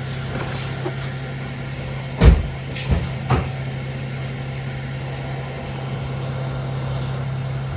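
Holden VE Commodore engine idling with a steady low hum. Three sharp knocks come between about two and three and a half seconds in, the first the loudest.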